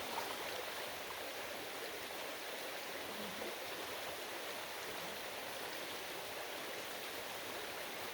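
Stream water running steadily, an even rushing flow.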